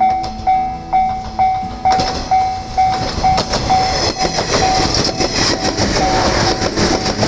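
Railway level-crossing alarm bell ringing about twice a second, then a train running past from about two seconds in, its wheels and carriages loud over the bell, which keeps ringing.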